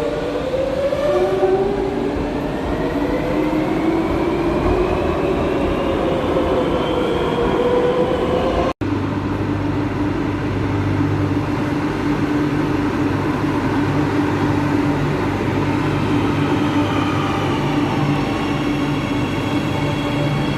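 Madrid Metro train running, its electric traction motors whining in several tones that glide up and down as it changes speed. The sound drops out for an instant about nine seconds in, then carries on as a steadier hum, with a new rising whine near the end.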